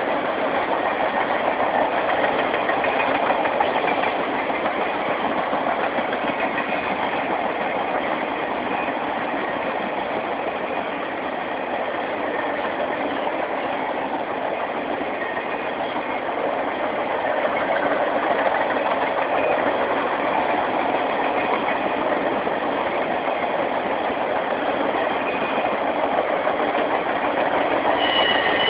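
Norfolk Southern Triple Crown RoadRailer train rolling steadily past: the continuous rolling noise of the trailers' wheels on the rails, with no breaks or changes.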